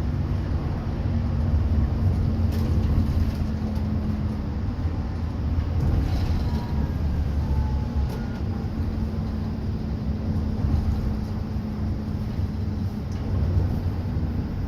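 Inside a moving bus: the engine and road noise make a steady low rumble with an engine hum, and a few faint rattles from the cabin.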